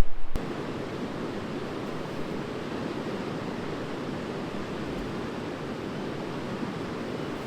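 Steady rushing of flowing river water, an even roar with no breaks, beginning abruptly just after the start.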